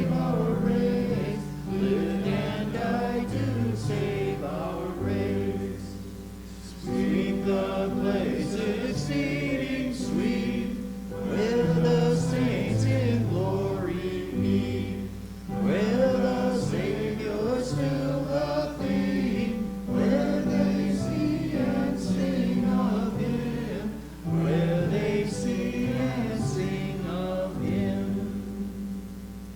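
Church congregation singing a hymn together in sung phrases with held notes and short breaks between lines. The singing fades out near the end as the hymn finishes.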